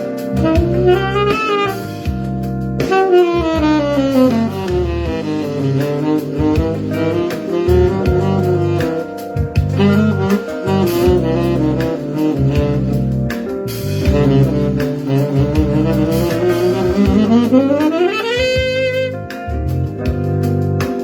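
Saxophone playing a phrase of a tune built only from chromatic runs, sliding up and down in half steps, with a long rising run near the end. The chromatic lines give the melody a sense of movement.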